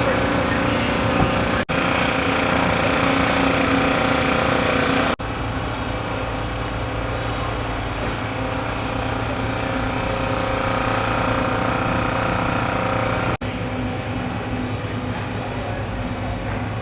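A steady small-engine drone, cut abruptly three times where the clips are joined.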